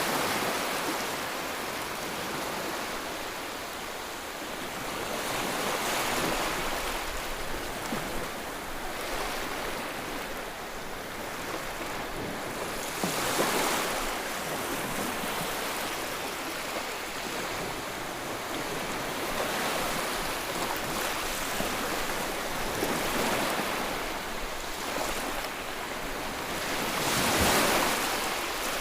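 Ocean waves washing in, a steady rushing hiss that swells with each wave every several seconds and ebbs between them.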